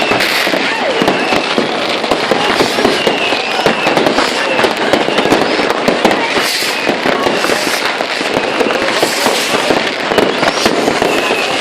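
New Year's Eve fireworks and firecrackers going off all around without pause: a dense run of overlapping bangs and crackles, with short whistles gliding up and down.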